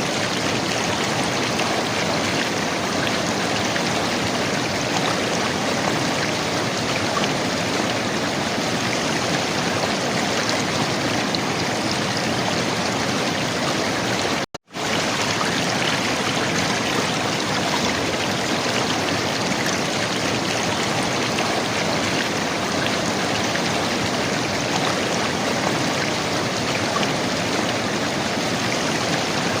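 River water running and gurgling over rocks, a steady rushing with no change in level. It drops out to silence for a split second about halfway through, then resumes as before.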